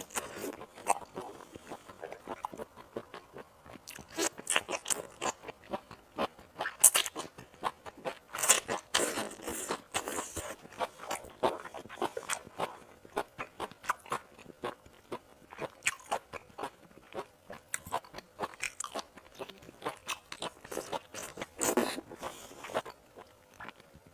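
Close-up eating sounds of seafood: irregular crunching and crackling bites with wet chewing in between, many sharp crunches a second at times.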